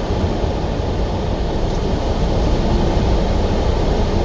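Semi-truck engine and cab noise, a steady low drone inside the truck's cab.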